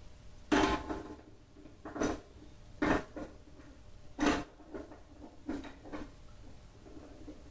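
A series of about six separate knocks and clunks, a second or so apart, from hard objects being handled and set down.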